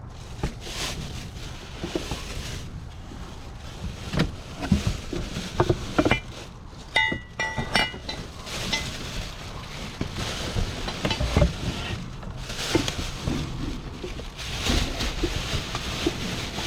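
Rummaging through a dumpster: irregular rustling, clatters and knocks of objects being handled, over a low steady rumble, with a brief high-pitched tone about seven seconds in.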